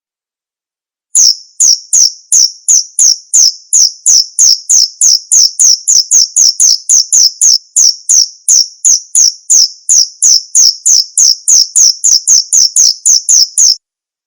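Male cricket chirping: a rapid, regular series of short, high chirps, about three a second, starting about a second in and cutting off abruptly near the end.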